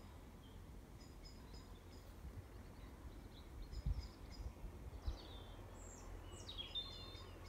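Small birds singing in woodland: clusters of short high chirps and a few quick falling whistles, the busiest and loudest phrase near the end. Under them runs a low rumble, with two dull thumps near the middle.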